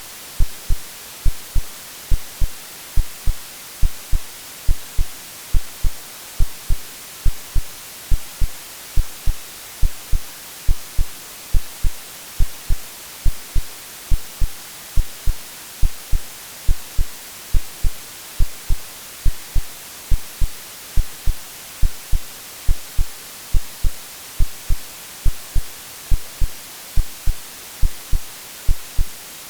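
Synthetic heartbeat of paired low thumps, about one double beat a second, over a steady hiss of white noise: a womb-like sleep sound for soothing babies.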